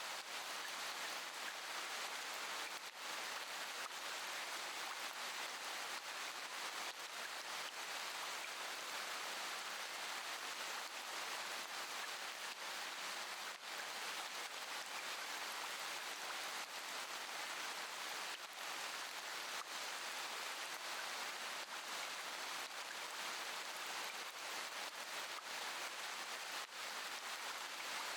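Steady rain falling, an even hiss with occasional faint sharper drops.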